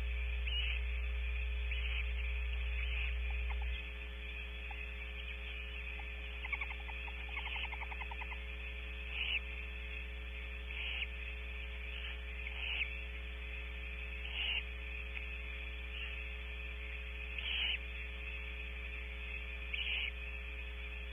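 Steady electrical mains hum from the owl-cam's microphone, with short barn owl hisses repeating every second or two, and a brief run of fast clicks a few seconds in.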